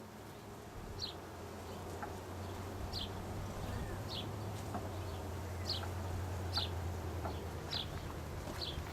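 Honeybees buzzing around an open hive, a steady low hum that swells a couple of seconds in. A bird gives a short high chirp about once a second over it.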